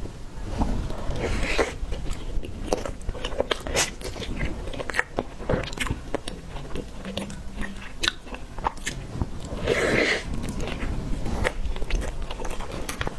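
Close-miked eating of a tiger skin roll cake: biting and chewing with many short wet mouth clicks, and a louder bite about ten seconds in.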